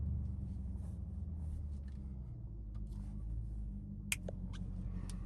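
Straight-piped Dodge Durango engine running steadily at low revs, a deep, even exhaust drone. A short click about four seconds in.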